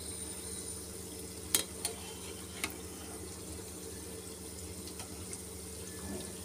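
Semolina gulab jamun balls frying in ghee on low heat: a steady, gentle sizzle. Three light clicks in the first three seconds come from a metal slotted spoon touching the pan as the balls are stirred.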